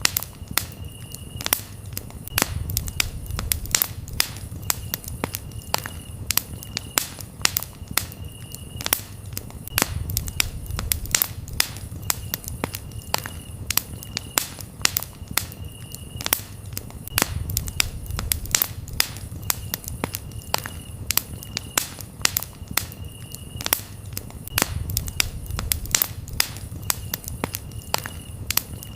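Campfire burning, crackling with frequent sharp pops and snaps over a low rumble of flames. Crickets chirp in short repeated trills behind it.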